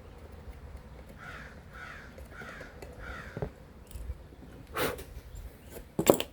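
A bird calling four times in quick succession, each call dropping slightly in pitch. Then two sharp knocks, the second the loudest.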